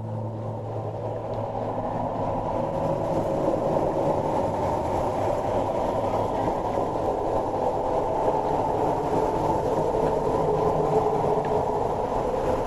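A dense, steady rumbling noise with no clear notes, slowly growing a little louder: a noise texture within an experimental instrumental piece.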